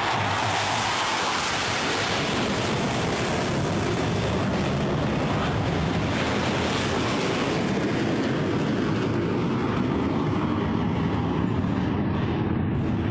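Military jet aircraft passing over: loud jet noise that begins suddenly, its high hiss dying away over the following seconds and leaving a low rumble as the aircraft moves off.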